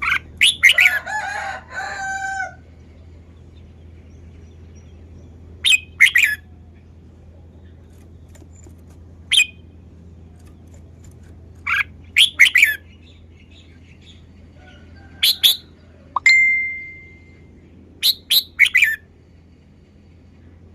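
Red-whiskered bulbul singing short, bright song phrases in bursts every few seconds. One phrase ends in a held whistle.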